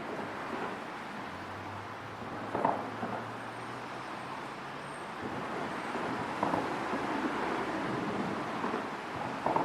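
Road traffic passing over a bridge: a steady rumble with a low engine hum in the first half and a few sharp thumps, a few seconds apart, as vehicles cross.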